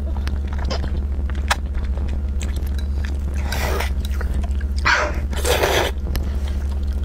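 Close-miked chewing of a mouthful of zhajiang noodles, with a few faint clicks and two louder wet mouth sounds around four and five seconds in, over a steady low hum.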